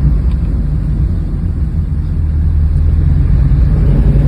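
Mid-engine Dodge SRT-4's turbocharged four-cylinder engine running under light throttle while the car is driven, a steady low rumble heard from inside the cabin. It eases a little about two seconds in, then builds again.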